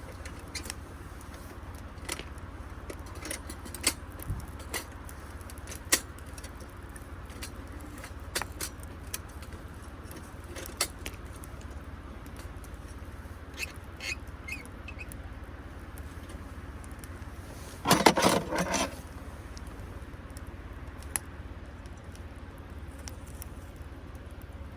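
Wood campfire crackling with scattered sharp pops at irregular intervals; a louder clatter of about a second comes about three-quarters of the way through.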